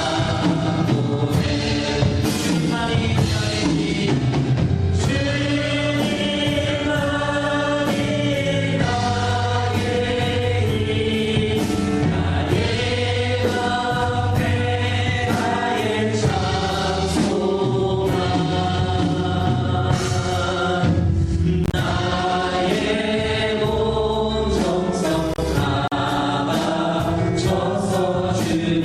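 A praise team singing a Korean worship song with band accompaniment and a steady beat.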